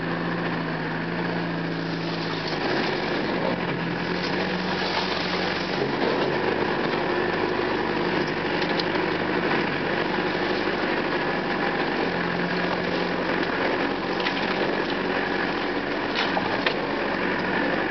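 Land Rover engine running at low revs as the vehicle crawls along a rough, rutted track, heard from inside the cab. The engine note shifts about two seconds in and again about two-thirds of the way through, and occasional knocks and rattles come from the bumpy ground.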